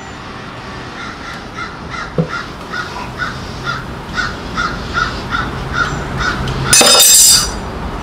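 A bird calling in an even series of short calls, about three a second, then one loud, harsh sound lasting about half a second near the end.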